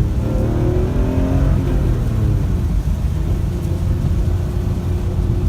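Straight-six engine of a 2006 BMW M3 E46, modified with cams to over 400 hp, pulling under acceleration. Its pitch rises for about a second and a half, breaks off, then holds a steady drone.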